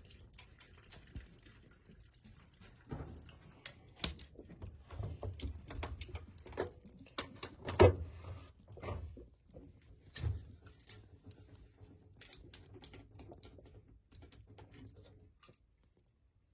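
Water running into a portable washing machine's tub fades out as the machine is paused, leaving scattered drips and small clicks and knocks, with one louder knock about eight seconds in.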